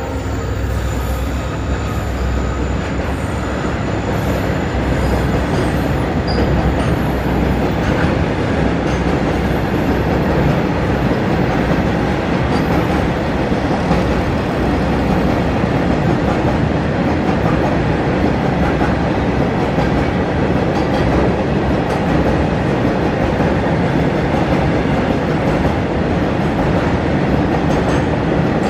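Freight train of BTPN bogie tank wagons rolling past: a steady, loud rumble of steel wheels on the rails.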